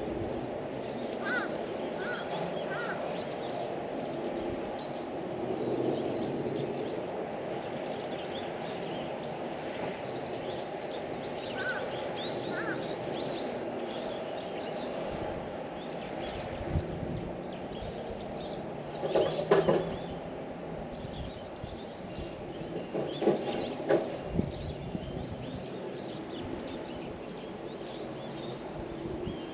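Outdoor ambience: a steady low hum under scattered short bird chirps, with two louder bursts of bird calls about two-thirds of the way through.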